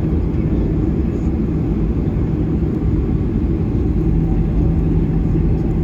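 Boeing 737-800 cabin noise as the airliner taxis to the gate: a steady low rumble from the jet engines at idle, with a steady low hum.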